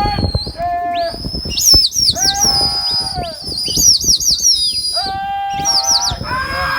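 Shrill whistles, several overlapping, each held on one high note and then dropping off sharply, mixed with lower, steady calls of about a second each, typical of pigeon flyers whistling and calling to their flock.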